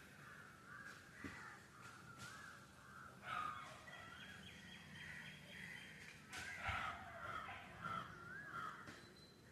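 Birds calling: a faint warbling call goes on throughout, with louder harsh calls about three seconds in and again about six and a half seconds in.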